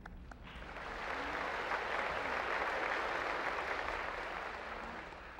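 Audience applauding, swelling over the first second, holding, then dying away near the end.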